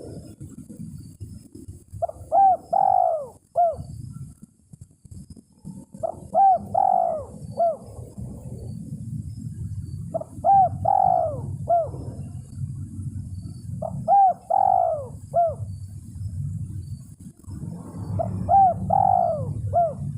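Spotted dove (tekukur) calling: five phrases of three or four rounded coos, one phrase about every four seconds, over a steady low rumble. It is the call that answers and draws in a rival tekukur.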